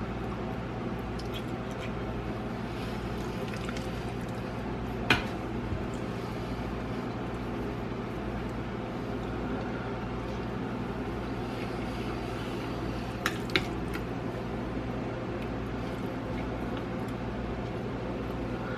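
A person eating chicken ramen, with wet chewing and squishing mouth sounds over a steady low hum. Sharp clicks of utensils on the bowl come once about five seconds in and twice close together later on.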